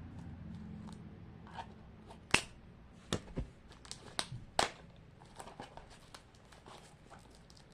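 Plastic wrapping being picked at and pulled off a toy box: scattered crinkles and sharp clicks, the loudest about two and a half and four and a half seconds in.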